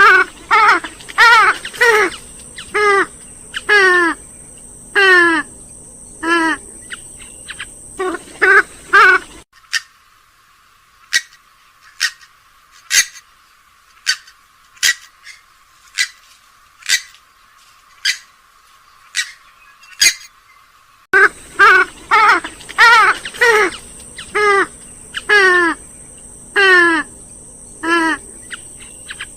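Recorded purple swamphen and common moorhen calls: runs of loud calls that slide down in pitch, several a second. About ten seconds in they give way to sharp, short clicking calls about once a second, and the sliding calls return about twenty seconds in.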